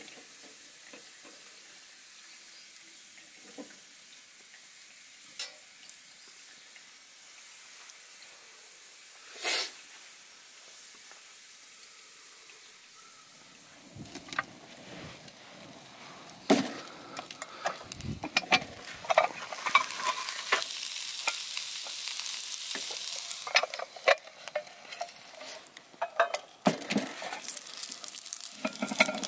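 Sizzling and crackling over a campfire: sparse sharp pops at first, then denser and louder crackling and sizzling from about halfway, with small clatters.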